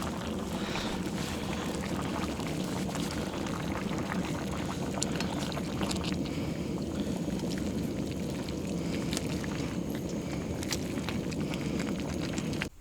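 Stew of hare and duck simmering in a kazan over a campfire: a steady bubbling hiss with scattered small crackles and pops. It cuts off suddenly near the end.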